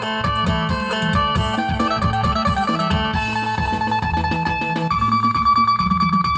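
Phin music: the Isan plucked lute picking a quick melody of short notes over a steady low beat, ending on a longer held note.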